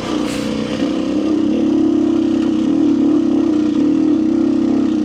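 Kawasaki KLX300R's single-cylinder four-stroke engine running hard under load up a steep dirt hill climb, its note held at a nearly steady pitch and growing a little louder about a second in.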